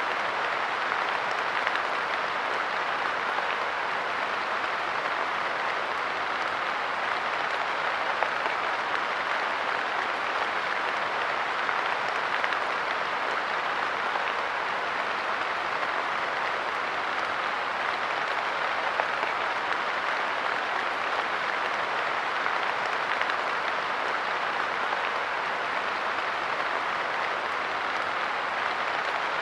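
Steady light rain pattering on a park bench, an even hiss of countless small drop impacts with no change in intensity.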